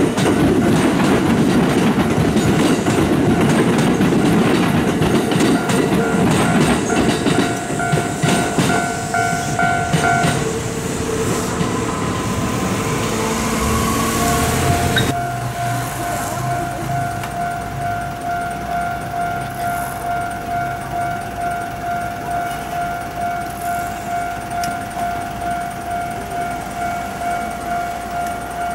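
Kintetsu electric train passing close by over the junction tracks, its wheels rumbling and clattering for about the first ten seconds. From about fifteen seconds in, the train sound has faded and a Japanese level-crossing warning bell rings steadily in an even, repeating rhythm.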